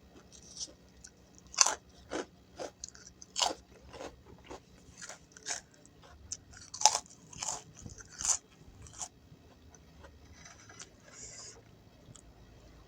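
Close-up eating sounds of gado-gado: a string of sharp, crisp crunches as bites are taken and chewed, over the first nine seconds or so, then softer chewing.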